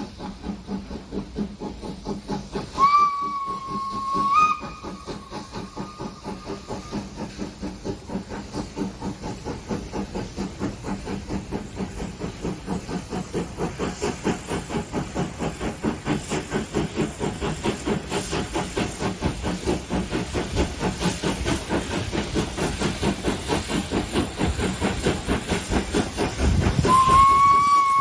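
Steam locomotive chuffing in a steady rhythm of about four beats a second, with two long whistle blasts, one about three seconds in and another near the end.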